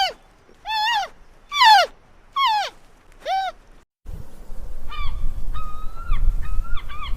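A dog whimpering in a series of short high cries, each rising then falling, about one a second. About four seconds in, a cut to geese honking over a noisy background, the honks coming quickly near the end.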